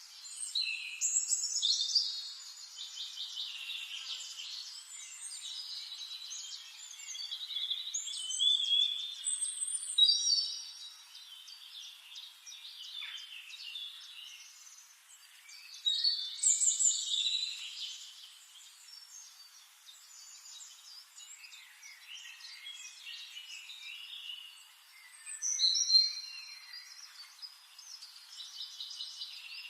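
Birds singing and chirping, with several loud, high warbling phrases a few seconds apart over softer calls.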